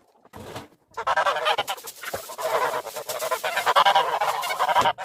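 Geese honking loudly, several calling over one another almost without pause from about a second in.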